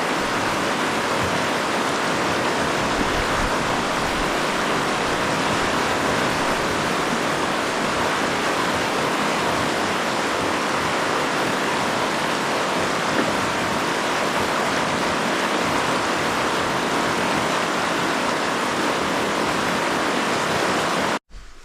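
Rushing water of river rapids, a steady loud hiss that cuts off suddenly near the end.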